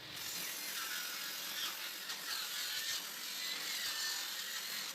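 Table saw blade cutting a rabbet along a strip of pallet wood, a steady high-pitched cutting noise with a wavering pitch, starting and stopping abruptly.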